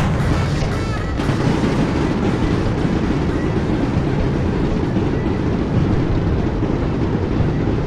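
Fireworks exploding in a rapid, continuous barrage, the booms overlapping into one dense, loud rumble, with a sharp burst at the start.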